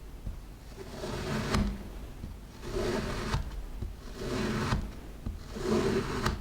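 Kinetic sand being handled, in four drawn-out scraping strokes of about a second each, roughly one and a half seconds apart.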